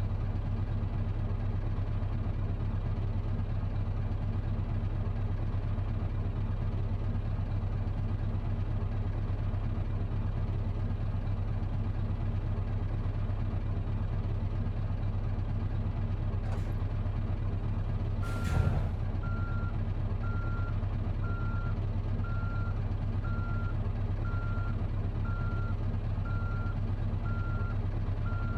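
Truck's diesel engine idling steadily. About eighteen seconds in, a short hiss of released air, then a beep that repeats about once a second.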